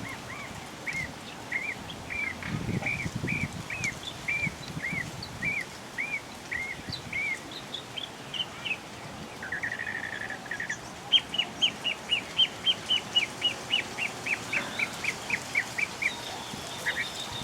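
Birds calling: a run of repeated arched chirps, about two a second, then a short buzzy note, then a fast series of sharp, short notes, about three a second. A thin high whistle comes near the end.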